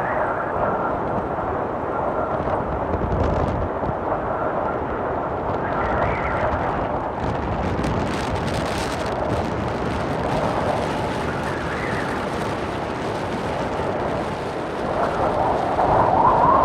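Strong gale-force wind blowing against the microphone, a steady noise that swells louder in a gust near the end.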